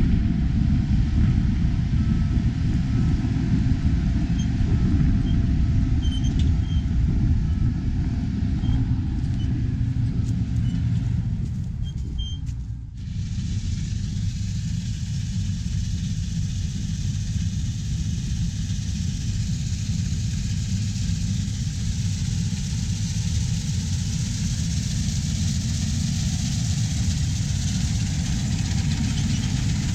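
Harvest machinery engine running steadily with a low rumble. About 13 s in the sound dips briefly, then goes on with more hiss in it.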